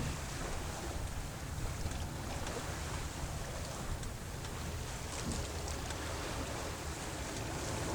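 Steady wind rush and rumble on the microphone over water washing along a sailboat's hull while it sails in light wind.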